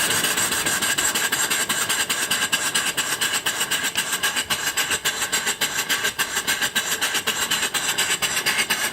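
Mill steam engine running steadily under steam, with a rapid, even beat and a steady hiss.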